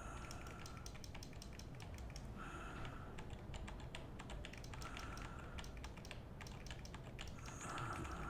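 Faint, rapid clicking of a computer keyboard, many quick key presses. A short faint tone recurs about every two and a half seconds.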